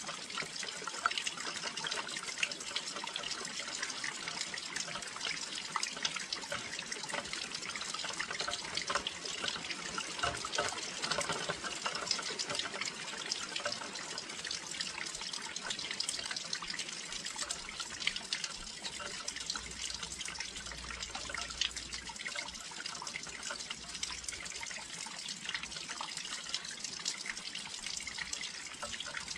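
Steady rain near a windowsill: a continuous hiss of falling rain dotted with many close, fine drop ticks, with no let-up.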